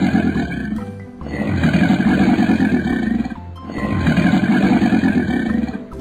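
Animal growl sound effect voicing a cartoon crocodile: three long growls, each nearly two seconds, with short breaks between, over background music.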